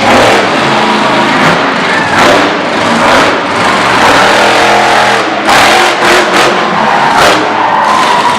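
Monster truck engine revving hard, its pitch rising and falling as the throttle is repeatedly opened and closed, very loud.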